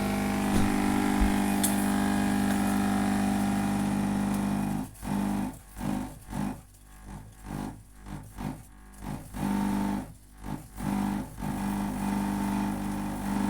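Dolce Gusto Mini Me capsule machine's water pump running with a steady buzzing hum as it brews. About five seconds in, the hum stutters on and off in quick irregular pulses for several seconds, then runs steadily again. The owner says this machine has been acting up for months.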